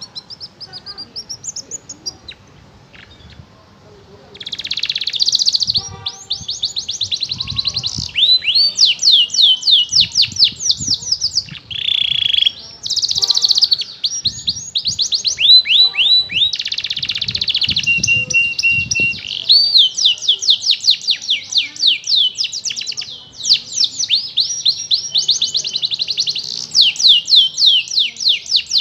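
Young domestic canary practising its song: rapid runs of high sweeping chirps and trills, sparse and softer for the first few seconds, then nearly continuous, with one loud buzzy note about halfway through.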